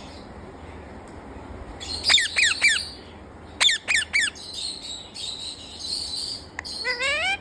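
Parrot calling: a quick run of whistled chirps about two seconds in, three sharp falling chirps near the middle, then a longer raspy chatter that ends in rising whistles.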